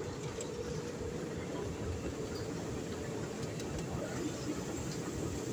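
Train running: a steady, even rumble of wheels and running gear.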